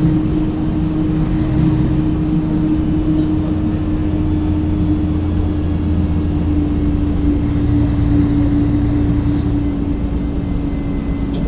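Scania L113CRL bus running steadily: a low engine drone with a constant tone above it, the engine note shifting slightly about a second in and again around eight seconds.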